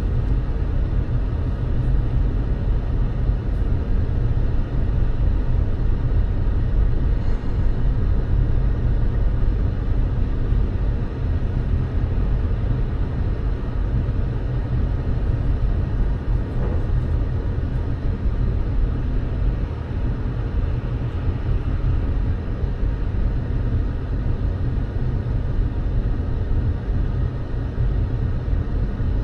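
Steady low rumble of a car driving, its road and engine noise running evenly.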